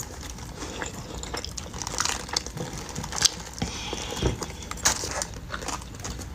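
Close-up handling of a takeout oxtail meal: scattered light clicks, taps and rustles of utensils, food and its container.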